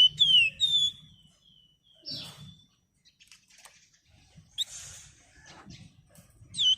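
Flamboyan songbird calling: a quick run of sharp, down-slurred chirps with ringing overtones at the start, a few fainter notes in the middle, and the rapid chirping starting again near the end.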